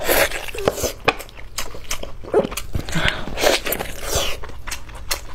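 Close-miked chewing and biting of food: wet mouth smacks and crunchy clicks, coming irregularly.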